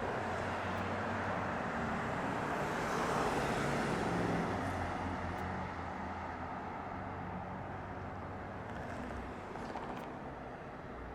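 Jet airliner engine noise passing, swelling to a peak about three seconds in and then slowly fading.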